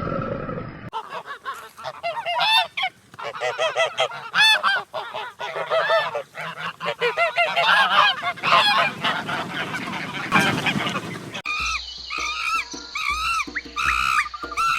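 A flock of geese honking, many calls overlapping. About eleven seconds in it cuts suddenly to a different, higher-pitched repeated call.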